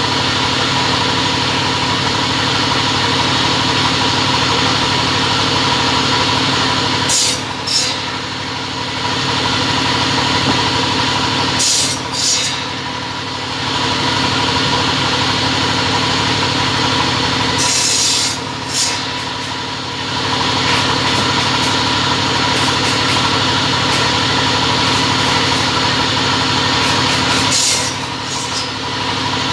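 Double-head cutting machine running with a steady motor hum. Four times, roughly every five seconds, the sound briefly drops and a pair of short, sharp high sounds cuts through.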